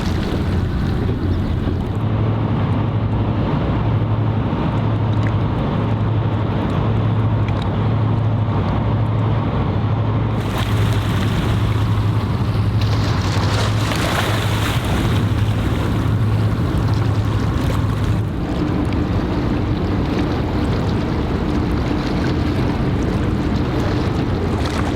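A boat's engine running with a steady low, slightly pulsing hum, over wind and water noise. A higher steady hum comes in about two-thirds of the way through.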